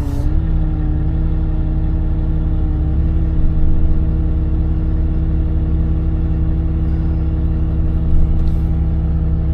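Tow truck engine running at a steady speed, a constant low drone.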